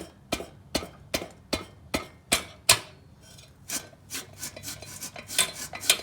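Muffler on a John Deere 314 garden tractor being worked off after its clamp is loosened. First comes a run of sharp, evenly spaced metal knocks, about two or three a second. From about halfway through, irregular scraping and rubbing of metal follows as it is twisted free.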